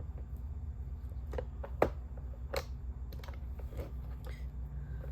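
Scattered light clicks and taps from hands handling small hard objects, the loudest about two seconds in, over a steady low hum.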